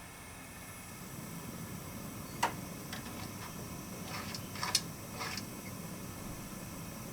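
Steady hiss, with a sharp click a little before the middle and a short cluster of clicks and taps across the middle.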